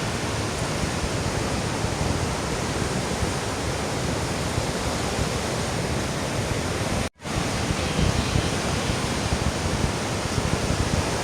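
Steady, loud rushing of falling water, broken by a brief gap to silence about seven seconds in.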